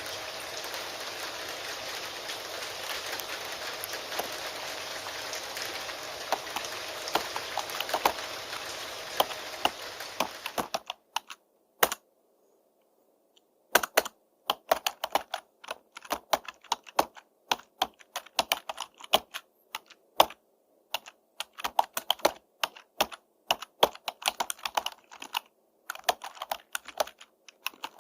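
Steady rain with computer keyboard typing clicking over it. The rain cuts off suddenly about eleven seconds in. After a short near-silent pause, the keyboard typing continues alone as quick, irregular key clicks.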